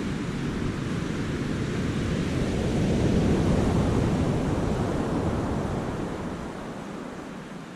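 Sea surf in a cove: a wave breaks and its rushing wash swells to a peak about halfway through, then ebbs away.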